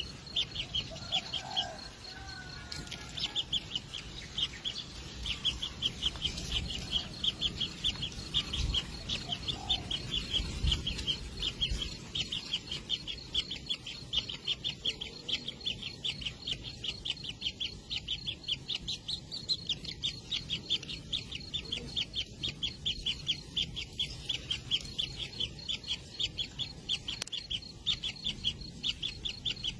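Kingfisher nestlings calling in the nest burrow: a continuous rapid run of short high chirps, several a second, with a few lower, bending calls in the first couple of seconds.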